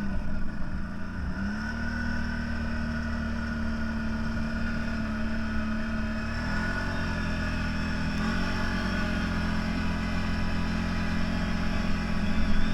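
CFMOTO 1000 off-road vehicle's engine running steadily, its pitch stepping up a little a few times, and growing louder near the end.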